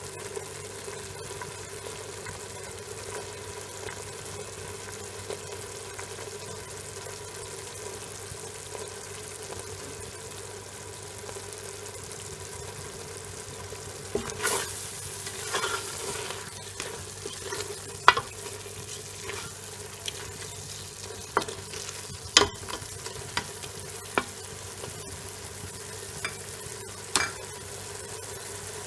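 Goat tripe frying in oil in a metal pot, a steady sizzle. From about halfway through, stirring adds irregular sharp knocks and scrapes of a utensil against the pot.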